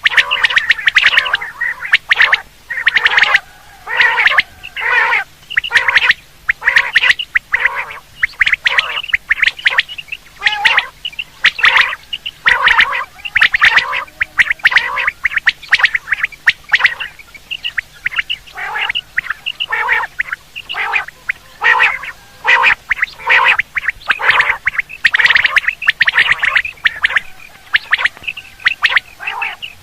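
Quail (batair) calling over and over, short sharp notes in quick clusters with brief pauses between, as used to lure quail when hunting.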